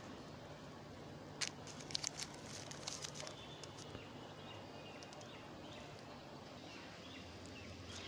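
Quiet outdoor garden ambience with faint bird chirps, and a cluster of crackling rustles from about one and a half to three seconds in.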